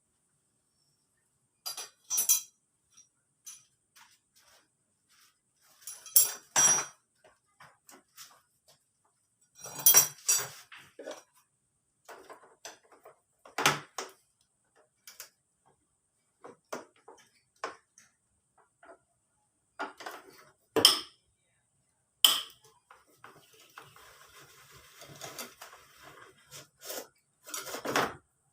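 Metal hand tools and engine parts from a Honda Vario 150 scooter engine being dismantled, clinking and knocking at irregular intervals. The louder knocks come about 2, 6, 10, 14, 21 and 22 seconds in, with a busier run of small rattles near the end.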